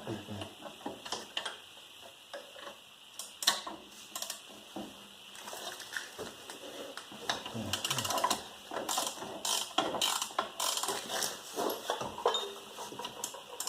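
Hand ratchet wrench clicking in irregular runs, busier in the second half, as a 14 mm caliper bracket bolt is worked loose.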